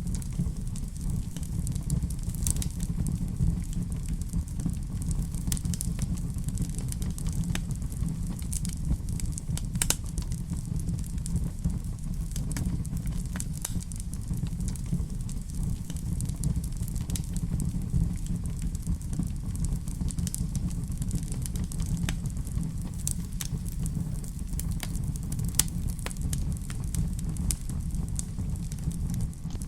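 Fire burning in a fireplace: a steady low rumble with irregular sharp crackles and pops scattered through it.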